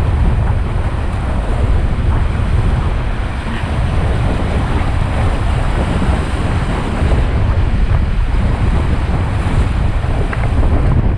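Fast-flowing river water rushing steadily, with heavy wind buffeting on the microphone.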